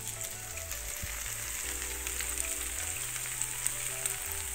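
Grated-potato pancakes (deruny) frying in hot vegetable oil in a frying pan: a steady sizzle with small crackles and pops. Quiet background music underneath.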